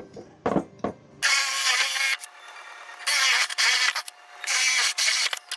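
Power drill boring holes in a wooden board with a smaller bit, three bursts of about a second each, preceded by a couple of short clicks.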